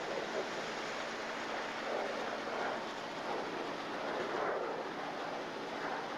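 Steady rushing rumble of a diesel switcher locomotive and coal cars rolling along the track, with a faint engine hum underneath.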